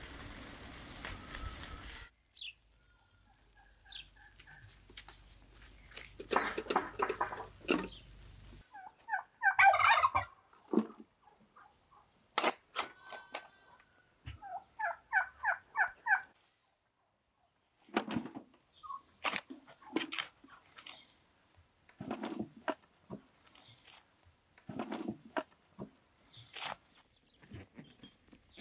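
A bird's rapid rattling call: short runs of quick repeated notes, about five a second, with a louder burst of calling about ten seconds in. Scattered knocks and thuds sound between the calls.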